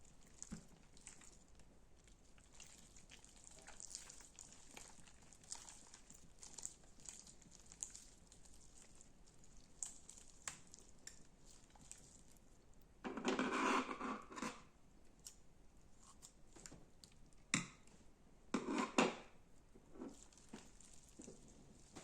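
Slime being handled and squeezed: a run of small crackles and pops, with two louder squishy bursts, one just past the middle and one a few seconds later, and a single sharp click between them.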